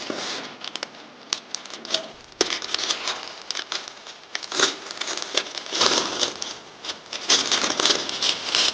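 Masking paper crinkling and rustling as it is handled and folded for masking, in irregular bursts with scattered small clicks.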